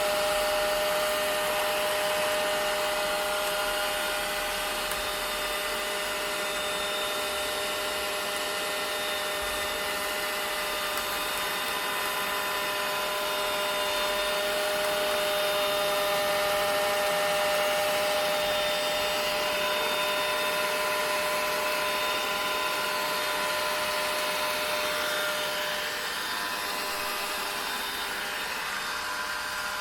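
Vacuum cleaner running steadily: an even rushing hiss of air with a motor whine held at a constant pitch.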